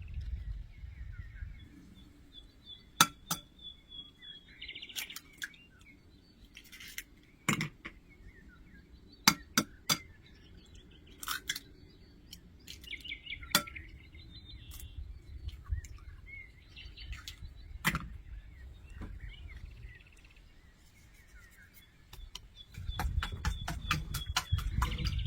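Scattered sharp clinks and knocks of kitchen utensils and dishes, with small birds chirping in the background; near the end comes a quick run of taps.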